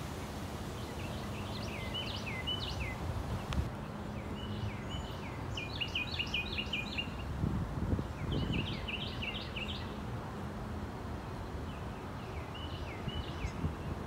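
A songbird singing short phrases of quick chirps that sweep up and down, repeated four times with pauses of a second or two between, over a steady background hiss. A brief low rumble sounds about eight seconds in.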